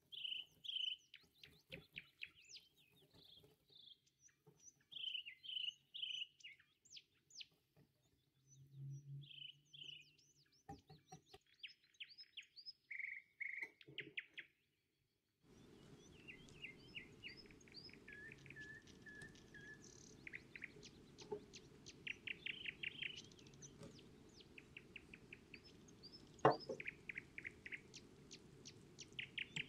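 Small birds chirping and trilling in short repeated phrases, with a faint hiss coming in about halfway through and one sharp click near the end.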